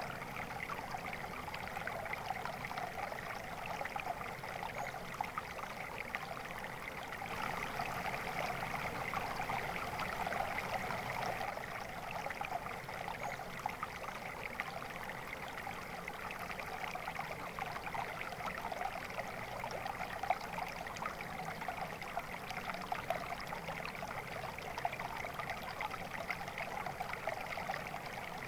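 Flowing stream water, a steady babbling trickle over stones with a dense, fine splashing texture.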